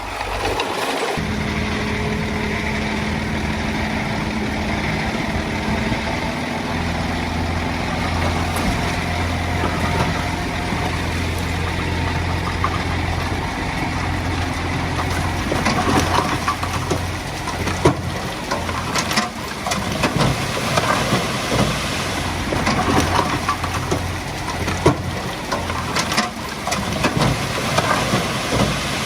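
A heavy diesel engine of earthmoving machinery runs steadily. From about halfway through, irregular metallic clanks and knocks come on top of it.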